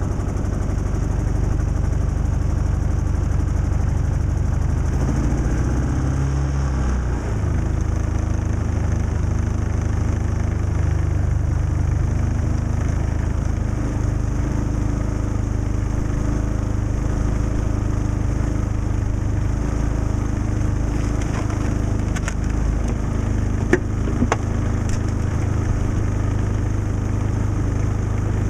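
Harbor Freight Predator 3500 inverter generator's small single-cylinder engine running steadily just after a cold start in below-zero cold, its speed shifting and settling over the first several seconds. A couple of light clicks about three-quarters of the way through.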